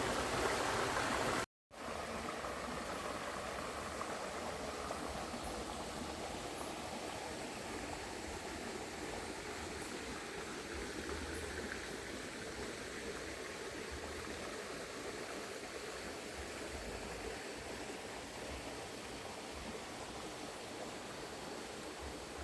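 Small river flowing steadily over rocks, an even rushing of water that cuts out for a moment about 1.5 s in and then runs on unchanged.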